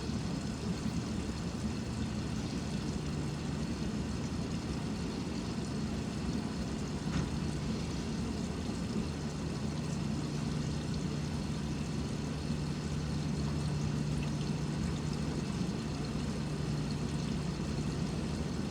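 Water running into a Maytag Neptune front-loading washer at the start of its cycle, a steady rush over a low hum, with the door not yet locked.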